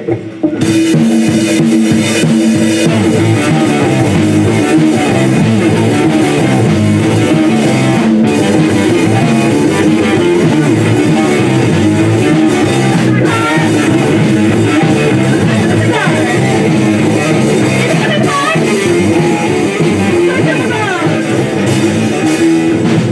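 Live rock band playing: electric guitar, bass and drum kit, kicking in right at the start after a brief pause.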